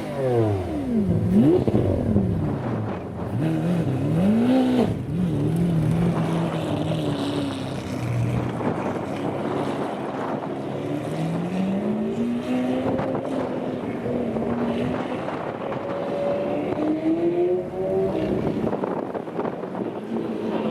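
Supercar engine revving and driving. Its pitch drops steeply at the start, then climbs and falls in steps as if shifting gears, rises steadily about halfway through and rises again near the end.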